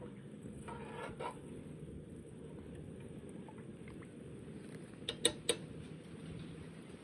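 Cooking utensils handled against cookware: a soft scrape or two about a second in, then three quick sharp clinks a little after five seconds, over a steady low background noise.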